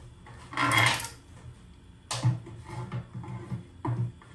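Metal hardware clattering: a loud scraping rattle about half a second in, then a sharp clank about two seconds in followed by several lighter knocks.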